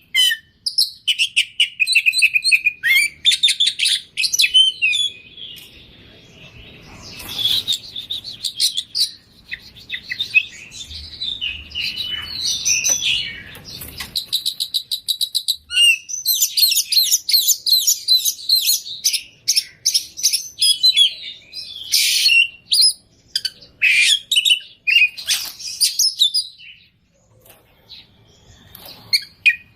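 Oriental magpie-robin singing a long, varied song of rapid chirps, trills and quick note runs, full of phrases mimicked from other birds, broken by short pauses and a quieter gap near the end.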